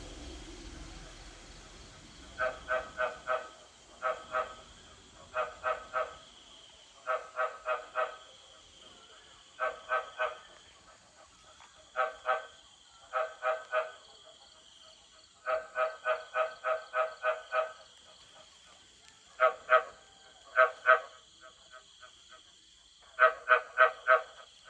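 Frogs giving mating calls after rain: repeated runs of croaks, each run a few to eight notes at about four a second, with short pauses between runs. A faint steady high-pitched hum runs behind them.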